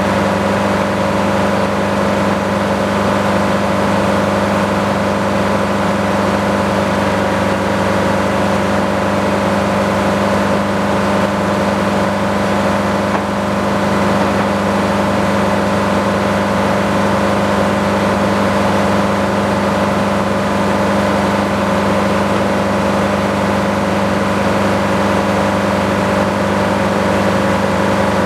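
Sawmill running steadily, its engine and saw making one unbroken drone with a few steady tones, with a brief slight dip about halfway through.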